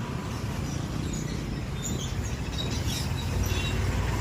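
Small birds chirping in short high calls over a steady low rumble.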